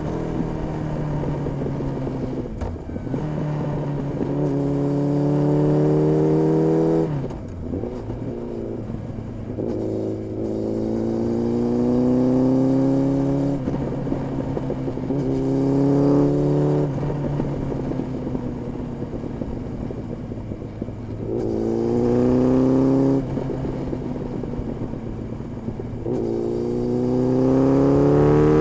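Honda CB1300S inline-four engine through an Ixrace aftermarket exhaust, accelerating in about five pulls. Each pull climbs steadily in pitch for a few seconds, then drops back sharply before the next.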